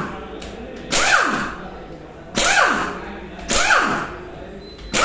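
Repeated sound effect: a sharp hit followed by a sweep falling in pitch, four times, about every second and a half.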